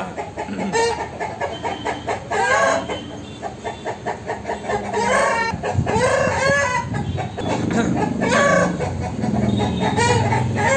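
Bird calls repeating one after another, short calls that bend up and down in pitch.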